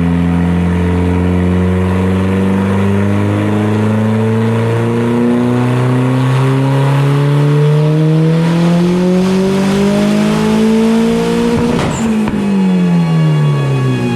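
Turbocharged 1.8T four-cylinder of a VW MK4, fitted with a Garrett GTX3076R Gen 2 turbo running 30 psi on E85, making a full-throttle dyno pull. The engine note climbs steadily for about twelve seconds. Then a brief rush of noise comes and the revs fall away quickly.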